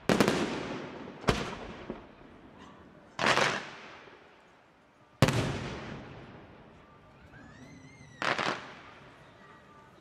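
Aerial firework shells bursting: five sharp bangs one to three seconds apart, each dying away slowly. The loudest comes about five seconds in, and the last is a quick cluster of pops.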